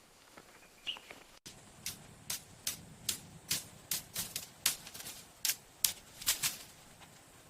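An irregular run of short, crisp scrapes or clicks, about two a second, beginning after a brief dropout about a second and a half in.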